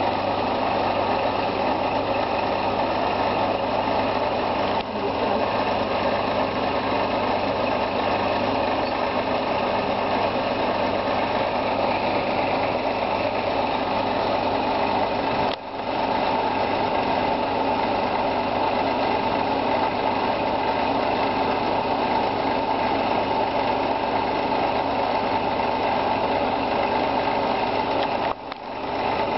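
An engine running steadily at idle under a continuous mechanical whirr, with brief dips in the sound about five, fifteen and twenty-eight seconds in.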